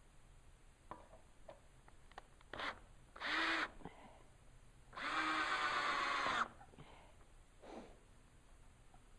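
Power drill running in two bursts on the trigger, a short one and then one of about a second and a half, each spinning up and winding down, as a brace is fastened into plywood.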